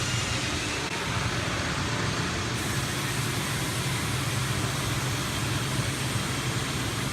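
Steady machine drone with a low hum under a broad wash of noise, holding an even level throughout.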